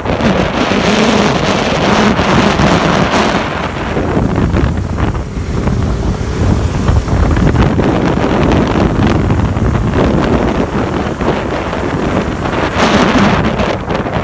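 Wind rushing over the microphone on a moving motorbike, with the motorbike's engine running steadily beneath it.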